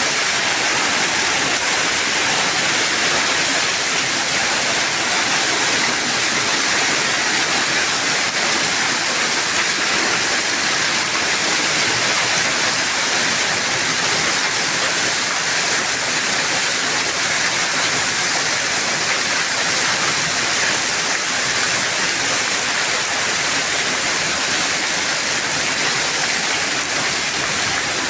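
A hailstorm with heavy rain: a dense, steady downpour of hail and rain that keeps an even level throughout.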